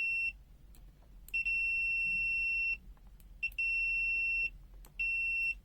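FUYI FY123 multimeter's continuity buzzer sounding as the test probes touch and part: a steady high-pitched beep that comes on and off several times, each lasting from a split second to about a second and a half. Each beep marks a closed circuit, a resistance under the meter's continuity threshold.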